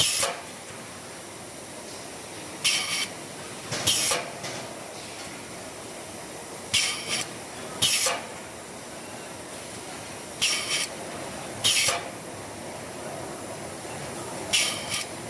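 Short hisses of compressed air venting from the pneumatic valves and cylinders of a wire-on-tube condenser folding machine, over a steady machine-shop background. They repeat in a cycle about every four seconds: a quick double hiss, then a single one about a second later.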